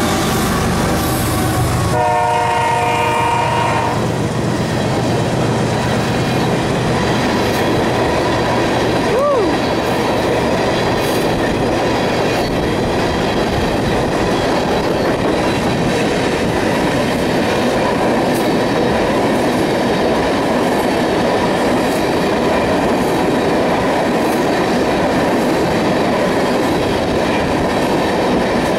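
Freight train passing close by: the trailing diesel locomotives' engines go by first, a horn chord sounds for about two seconds, then a long string of loaded tank cars rolls past with steady wheel-and-rail noise and clattering over rail joints.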